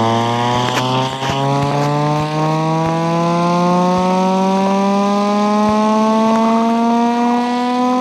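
A buzzing, engine-like tone with many overtones, rising slowly and steadily in pitch throughout, with a few faint clicks.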